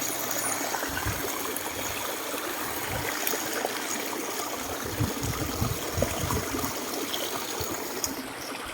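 Water rushing and splashing at a waterfall: a steady, even hiss, with a few dull low bumps around the middle.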